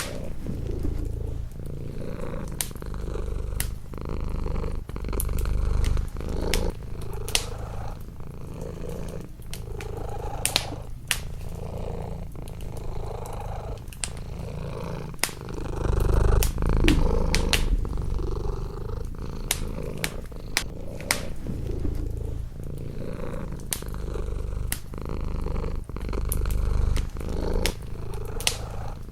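Domestic cat purring close up, the low rumble swelling and easing with each breath, while a wood fire in a fireplace crackles with scattered sharp pops.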